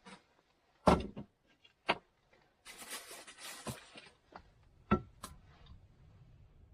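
Cooking gear being handled: several separate knocks and clunks, with a stretch of rustling about three seconds in.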